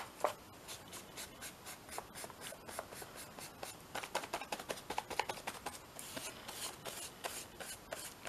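Paintbrush spreading matte medium over a paper journal page, a run of quiet, irregular scratchy strokes, several a second.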